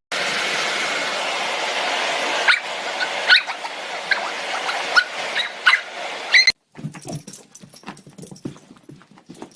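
A dog giving short high whimpers and yips over a steady rushing noise. It stops abruptly at about six and a half seconds, and then comes a run of irregular short knocks and low bursts.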